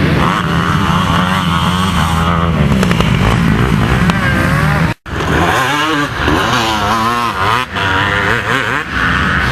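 Motocross bike engine revving up and down as it is ridden around the track, pitch rising and falling with the throttle. The sound cuts out for an instant about halfway through, then the revving carries on.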